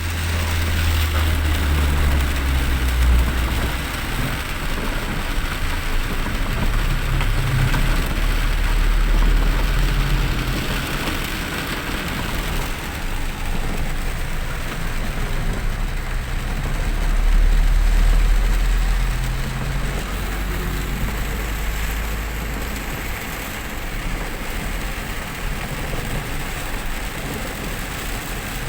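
Vehicle driving on a wet road in the rain: a low engine and road rumble under a steady hiss of rain and tyre spray, the rumble swelling briefly past the middle.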